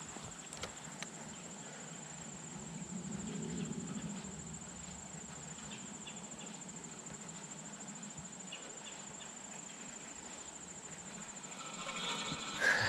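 An insect trilling steadily on one high, unchanging pitch. A short, louder burst of sound comes near the end.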